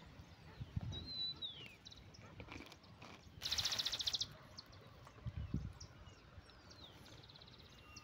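Small birds chirping outdoors: a few short, falling chirps and a rapid, buzzy trill lasting under a second about three and a half seconds in. A few soft, low thumps come underneath.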